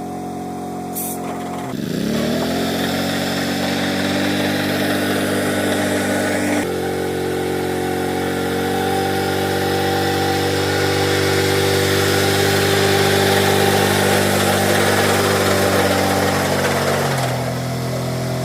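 An engine running at a steady speed. It picks up speed about two seconds in, steps up again about six seconds in, and slows down near the end.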